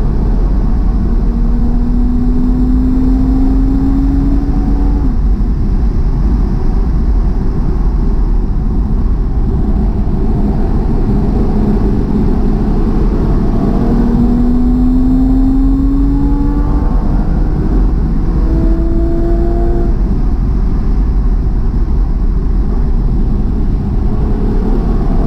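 Car engine on a track lap, heard from inside the car over heavy road and wind rumble: it revs up through a gear and drops at a shift about five seconds in, falls back while slowing for a corner, then pulls up through the gears again in the second half with a shift around seventeen seconds.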